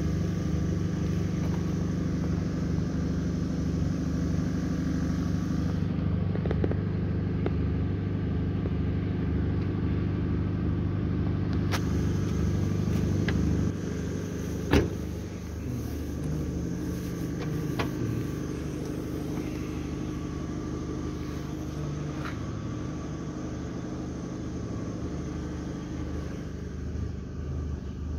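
Peugeot 206 car running with a steady engine drone and rumble. The drone drops a little in level about 14 s in, a sharp click follows just after, and a few fainter clicks come scattered through.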